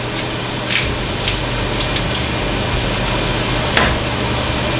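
Asparagus sautéing in pesto and olive oil in a skillet: a steady sizzling hiss with a few sharp clicks, over a steady low hum that grows a little stronger about a second in.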